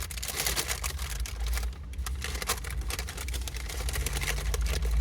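Paper seasoning bag of McDonald's fries being shaken: fries tossing and paper crinkling in a rapid, busy rattle, with a short pause about two seconds in.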